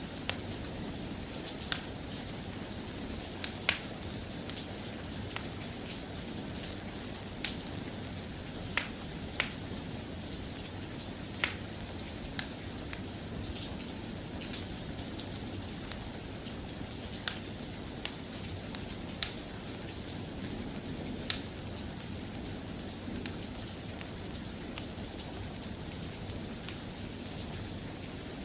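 Steady, soft rain, with sharp single ticks scattered irregularly about every second or two.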